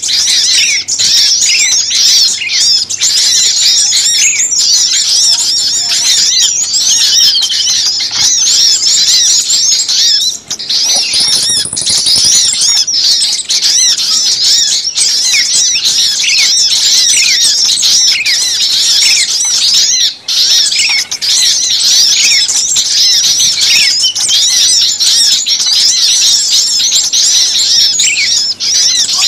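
Dense, loud chorus of many small birds chirping and chattering over one another without a break: a mixed-species lure recording of noisy, agitated small birds such as bulbuls, sunbirds and prinias, used to call birds in.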